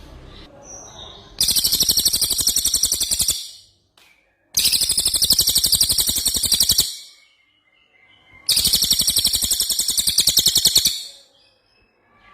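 A songbird's rolling trill ('rol tembak'): three bursts of about two seconds each, made of very fast, evenly repeated high-pitched notes, with short gaps between them. Faint chirps fill the gaps.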